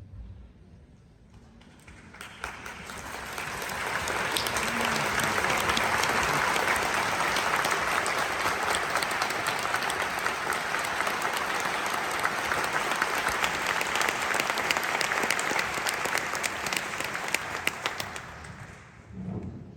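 Concert-hall audience applauding. The clapping starts about two seconds in, swells quickly, holds steady, then dies away near the end.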